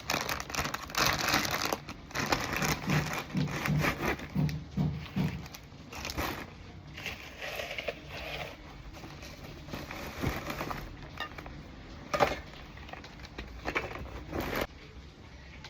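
Irregular crinkling and rustling of handled packaging, with scattered sharper clicks and cracks.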